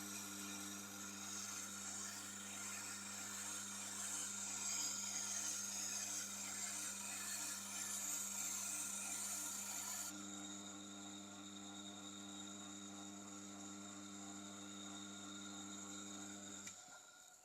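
Tormek sharpening machine's motor running with a steady hum while a knife blade is held against the turning wheel, giving a hissing scrape. About ten seconds in the scraping stops and only the motor hum is left, which cuts off near the end.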